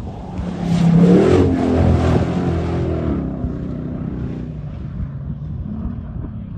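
Off-road rally car speeding past with its engine running hard, loudest about a second in, then fading away.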